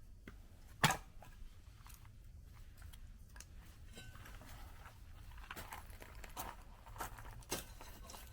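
Firewood being handled: one sharp knock about a second in, then scattered crunching and crackling of wood, with two smaller knocks near the end.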